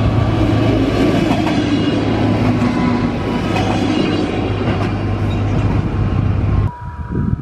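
Stadler GTW 2/6 diesel railcar passing close by and pulling away, its diesel engine humming steadily under the wheels clattering over the rails. The sound cuts off abruptly near the end, leaving something quieter with a thin steady tone.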